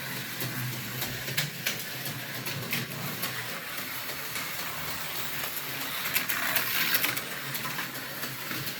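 Tyco U-turn Viper HO-scale slot car lapping the track: its small electric motor running steadily with the hiss of the car on the rails and scattered clicks, swelling briefly about six seconds in.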